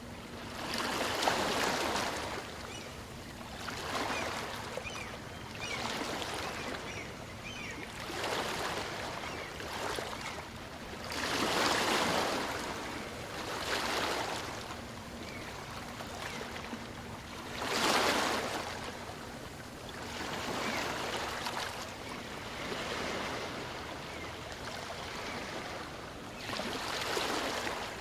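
Small waves of a calm sea breaking and washing up the beach, one swelling rush every few seconds that then falls back. The loudest comes about two thirds of the way through.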